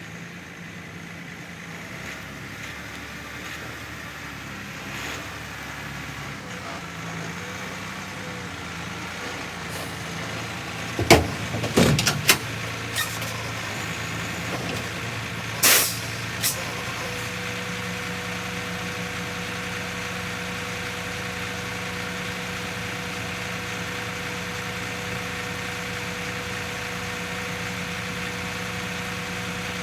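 Semi-truck diesel engine running steadily, with a few sharp metallic knocks about eleven to twelve seconds in and a short, loud hiss a few seconds later; about halfway through, a steady whine joins the engine and holds.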